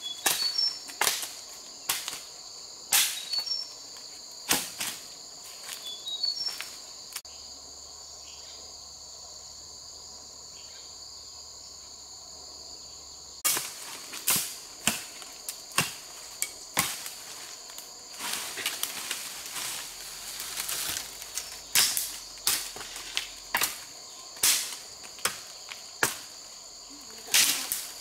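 A steady, high-pitched chorus of insects such as crickets or cicadas, with many sharp, irregular knocks or clicks over it. The knocks stop for about six seconds in the middle and then resume.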